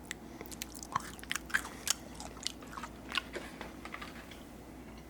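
A person chewing Buncha Crunch, bite-sized milk chocolate with crisped rice inside: irregular small crunches and crackles, a dozen or so, thinning out near the end.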